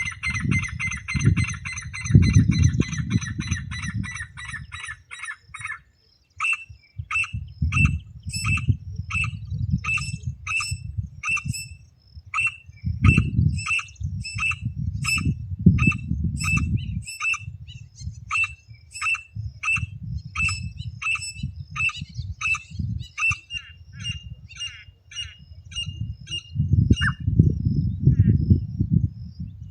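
Partridge (teetar) calls of the kind played to lure the birds. A rapid, dense chattering runs for the first several seconds, then gives way to a steady series of sharp repeated notes, about one and a half a second, that stops near the end. A low rumble lies underneath.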